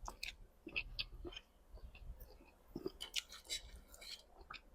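Close-miked eating sounds: soft, irregular wet clicks and smacks of a mouth chewing food.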